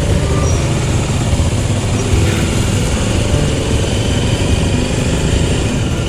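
Motorcycle engine running steadily while the bike is being ridden, with low engine rumble and road noise throughout.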